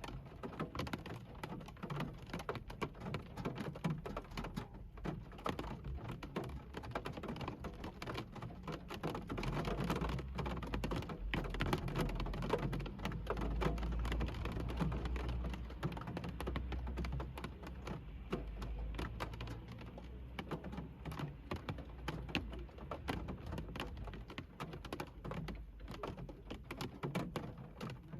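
Rain drumming on a car's roof and windshield, heard from inside the cabin as a dense, irregular patter of drops. A low rumble swells up for several seconds in the middle.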